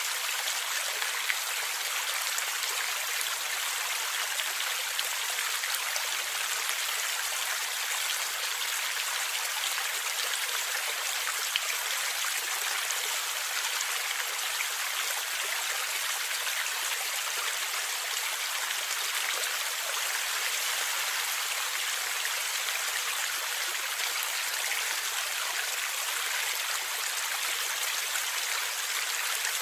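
A forest stream flowing and gurgling steadily, a bright splashing hiss with small droplet-like ticks scattered through it.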